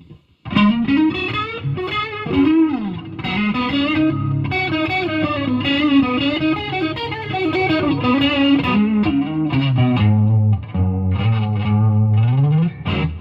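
Electric guitar played through a Fulltone Octafuzz fuzz pedal with a chorus pedal engaged, into a Fender Super Champ amp with reverb and delay. It plays a fuzzy lead line of notes that bend and slide in pitch, moves to lower riffing in the last few seconds, and stops just before the end.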